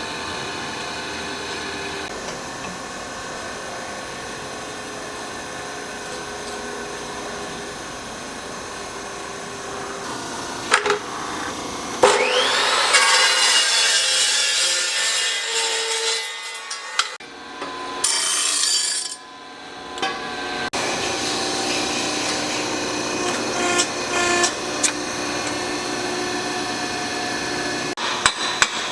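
Shop tool work on metal: a steady motor hum under rasping, rubbing tool noise. About eleven to twelve seconds in come two sharp knocks and a rising whine as a tool spins up, and a quick run of knocks starts near the end.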